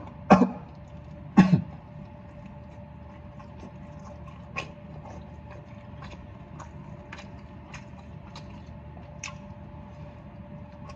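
A person clears his throat twice in the first second and a half, then chews a Double Whopper with small, irregular wet mouth clicks. A faint steady hum runs underneath.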